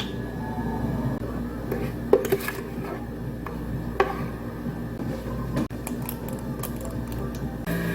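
Cups and utensils clinking and knocking a few times as drinks are made behind a cafe counter, over a steady background hum.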